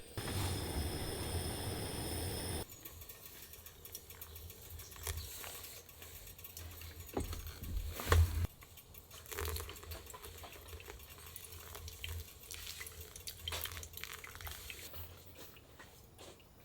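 Water running for about two and a half seconds, then scattered light knocks and clicks, with one louder knock about eight seconds in.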